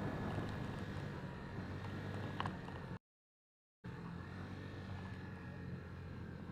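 Steady low rumble of distant engine noise, broken by a short gap of total silence about three seconds in.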